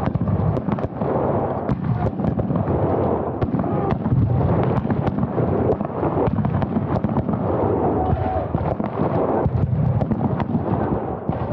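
Scattered black-powder gunfire of a battle reenactment: many sharp cracks in quick, irregular succession over a steady noisy din.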